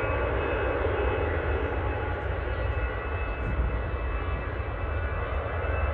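Airbus A320's CFM56 turbofan engines running at takeoff power: a steady jet noise with a deep rumble and a few faint high tones, holding level throughout.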